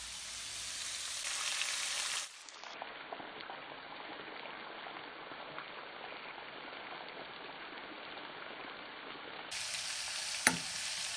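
Squid and cuttlefish pieces sizzling as they quick-fry in hot olive oil in a wok, a steady crackling hiss. Near the end there is a single sharp knock.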